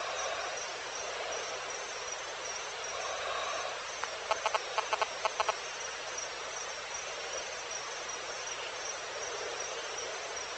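Evening insect chorus, crickets chirping steadily with a regular high pulsing chirp over a dense hiss of insect noise. About four seconds in, a brief run of about seven sharp, rapid calls from another animal stands out as the loudest sound.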